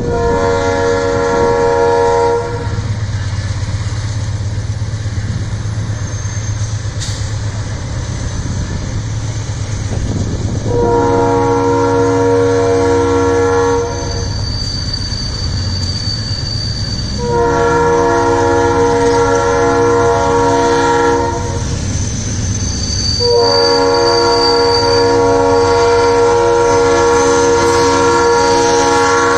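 Diesel freight locomotive horn, a multi-note chord, sounding four long blasts, the last held for more than six seconds, over the steady low rumble of locomotive diesel engines as the loaded freight train departs.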